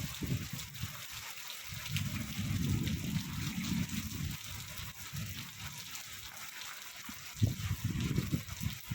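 Heavy rain falling in a steady hiss while strong wind gusts buffet the microphone in low rumbling surges, one from about two to four seconds in and another starting near the end.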